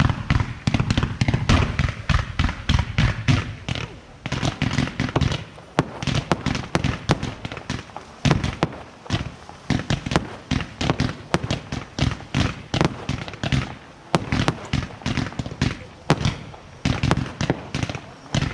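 Consumer firework batteries firing in a rapid finale barrage: a dense stream of shots and bangs, several a second, coming in clusters with brief lulls between them.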